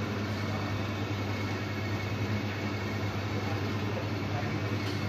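Commercial laundry machine, just repaired, running on test: a steady low motor hum over an even whirring noise.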